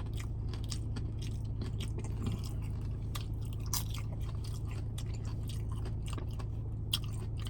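Close-miked chewing of loaded nachos, with many small irregular crunches and wet clicks from the tortilla chips, over a steady low hum.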